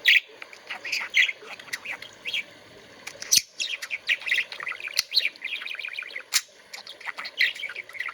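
Budgerigar chattering: a continuous run of quick, short chirps and warbles, broken by a couple of sharp clicks.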